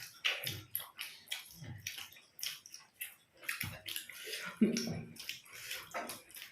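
Close-miked wet eating sounds: irregular chewing and lip-smacking clicks, with a brief low vocal sound about two-thirds of the way through.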